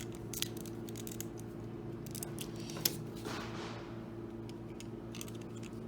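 LEGO bricks being handled and pressed together: a series of small plastic clicks and taps, with one sharper click about three seconds in.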